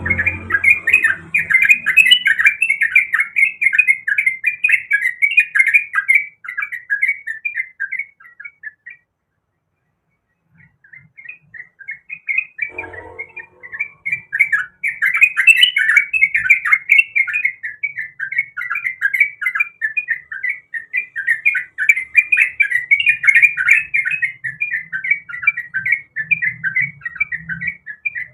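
Yellow-vented bulbul (trucukan) singing a loud, fast run of bubbling, chattering notes. The song stops for a moment about a third of the way in, then starts again and carries on.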